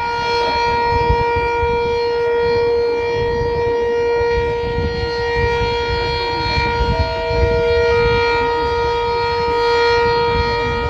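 Sentry 7V8 outdoor warning siren sounding at full speed, holding one steady pitch after winding up, with a low rumble underneath.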